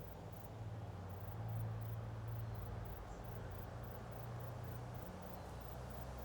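Steady low buzzing of insects, such as bees and flies, working flowering ivy; the hum swells and fades as they move.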